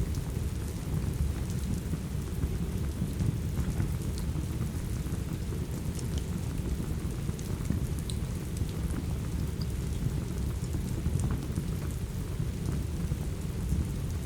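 Steady rain with a deep, even rumble underneath, dotted with scattered small crackles and pops of a wood fire.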